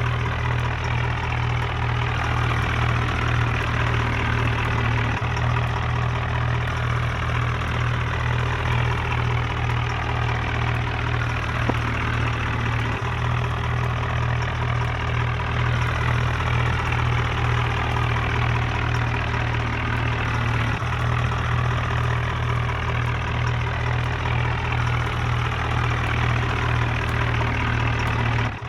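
Tractor engine running steadily with a low, even pulsing throb.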